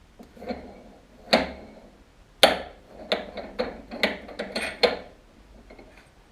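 Metal tools and parts clinking and knocking as they are handled and set down, about seven sharp knocks in a row, the loudest about two and a half seconds in.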